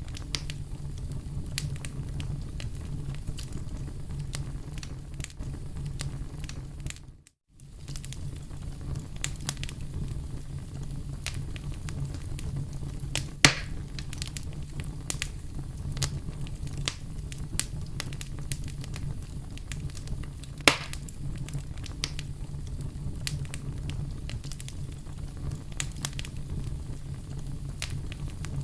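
Fire crackling in a fireplace: a steady low rumble under frequent small pops and snaps, with two louder pops about halfway and two-thirds of the way through. The sound cuts out completely for a moment about seven seconds in.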